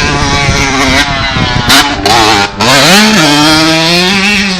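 Motocross motorcycle engine running and revving, its pitch climbing sharply about three seconds in and then dropping back to a steady note. Two short, loud rushes of noise come just before the rise.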